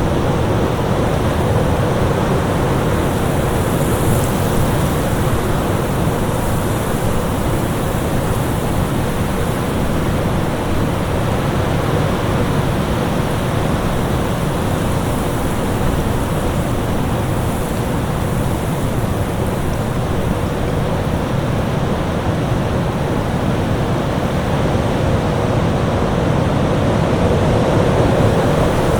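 Winter storm wind: a steady, dense rush of noise, strongest in the low range, rising and falling gently in slow swells.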